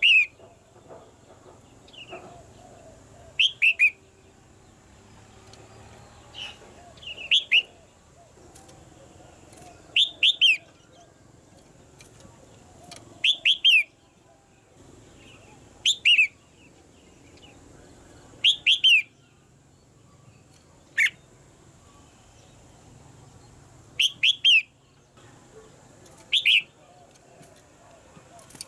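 Red-whiskered bulbul calling: short, quick phrases of two to four sharp descending notes, repeated about every three seconds.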